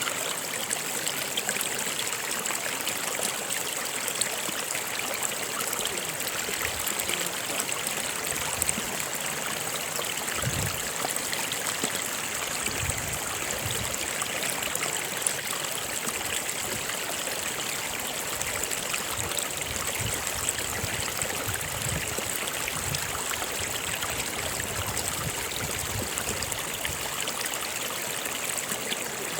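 Stream water flowing steadily over rocks, with scattered low gurgles from about ten seconds in.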